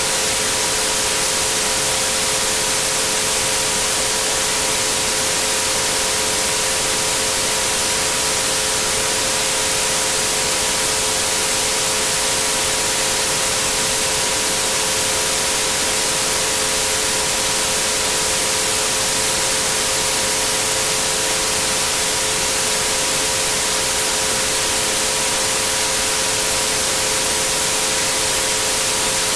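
Steady white-noise hiss with three pure tones held unchanging underneath it, at 432, 528 and 963 Hz.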